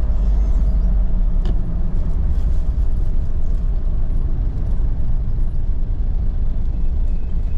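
Steady low rumble of a vehicle on the road: engine and road noise while driving.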